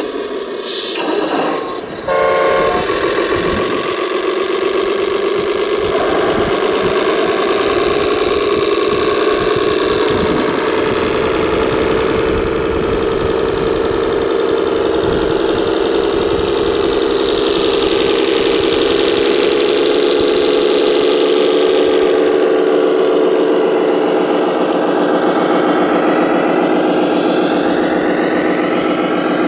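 Radio-controlled construction vehicle running: a steady motor hum with a whine. It settles in about two seconds in and then holds with little change.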